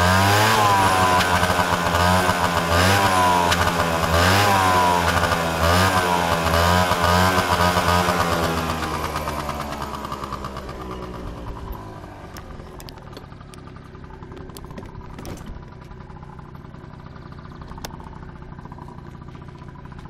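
Piaggio Zip 50 scooter's two-stroke engine revved through its exhaust in repeated short blips, each a quick rise and fall in pitch, about one every second and a half. About eight seconds in, the sound fades over a few seconds to a low, quiet background with a few faint clicks.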